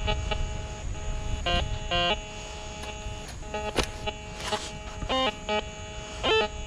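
Metal detector in beach mode sounding a steady buzzing threshold tone, broken every second or so by short warbling target tones that jump in pitch as the coil sweeps over buried metal, which the detectorist takes for a pipe.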